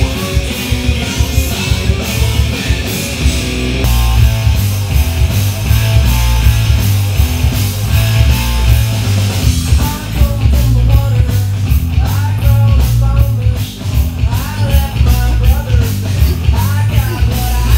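Loud hard-rock music with distorted guitar, heavy drums and bass, and singing, the band kicking in harder about four seconds in.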